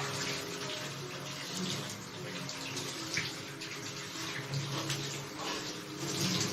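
Liquid running and splashing steadily, as in a shower, with faint steady low tones underneath.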